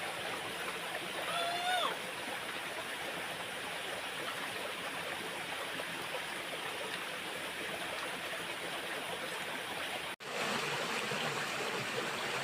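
Steady rushing of flowing stream water, with a short pitched call about a second and a half in.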